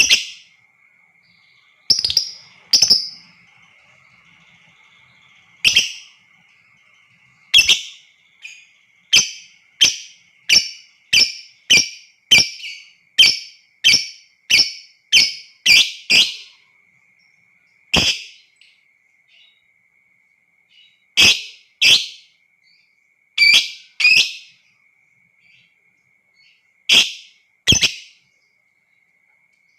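Lovebird giving short, shrill single chirps one at a time. There is a quick run of about one a second in the middle, with the chirps sparser before and after. A faint steady high tone sits underneath.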